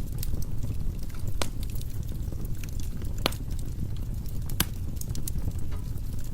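Wood logs burning in a fireplace: a steady low rumble of the flames with scattered sharp crackles and pops, the loudest a few seconds apart.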